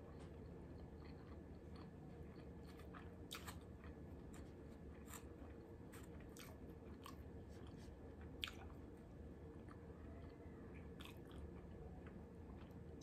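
Faint close-up chewing of takeout food, with scattered light clicks and mouth smacks and one sharper click about eight seconds in.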